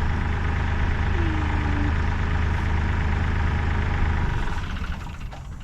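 Kioti CK3510 compact tractor's three-cylinder diesel engine running steadily at low revs, then fading away about four seconds in.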